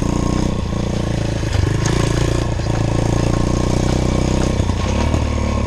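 Small pit bike engine running at a fairly steady low speed, with only slight changes in pitch.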